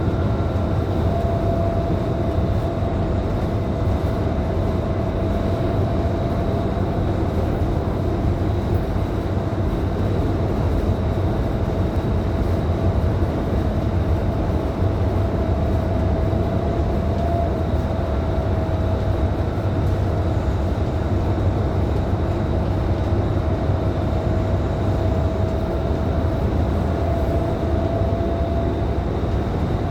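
Scania K310IB city bus running at a steady cruise, heard inside the cabin: a steady low diesel drone mixed with road and tyre noise, and a constant high whine on top.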